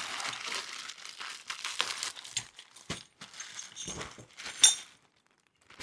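Packaging rustling and crinkling as parts are pulled out of the box, with a few small knocks and one sharp clink about four and a half seconds in.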